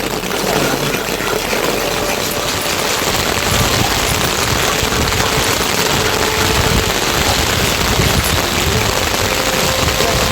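Heavy rain falling steadily, a loud, dense patter with no break.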